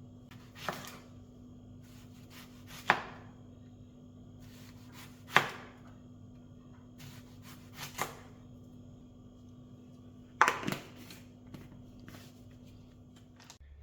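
Six sharp knocks, roughly every two to three seconds with two in quick succession near the end, over a steady low hum that cuts off shortly before the end.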